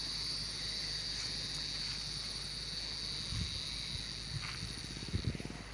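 Steady, high-pitched insect drone over a low engine rumble, with a few dull low knocks in the second half.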